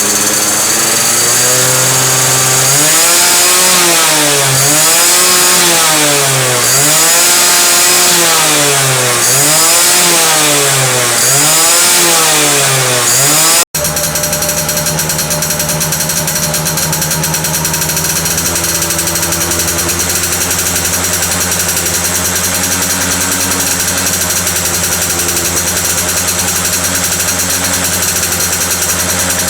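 Yamaha F1ZR's two-stroke single-cylinder engine, revved up and down repeatedly through its exhaust. After a sudden cut about halfway through, a two-stroke engine idles steadily with a fine rapid rattle.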